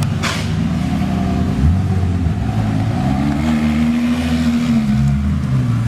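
A car engine revving: its pitch steps up about a second and a half in, climbs and holds high for a second or two, then drops back near the end. A short hiss comes just at the start.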